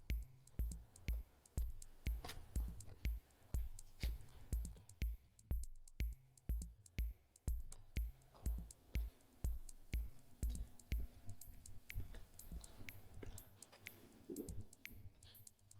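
Footsteps on stairs: steady, even footfalls about two a second, each a dull low thump with a sharp click, growing fainter and less regular near the end.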